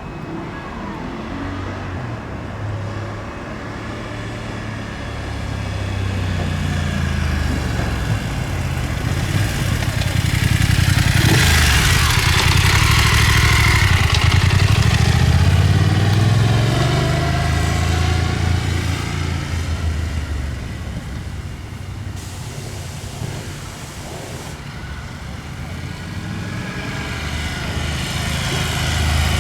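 BMW F 850 GS parallel-twin engine running through an Akrapovic exhaust, growing louder to a peak about halfway through, fading, then building again near the end.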